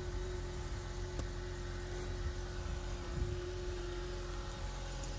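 Honda CR-V engine idling steadily with the door closed, with a faint click about a second in.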